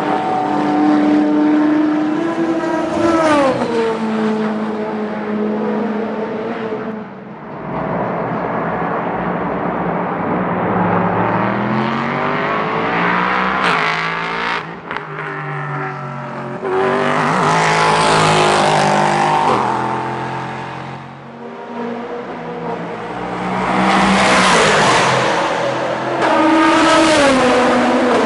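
Race cars passing one after another at speed. The engine note climbs as they accelerate and drops sharply a few times as they go by, with several loud pass peaks.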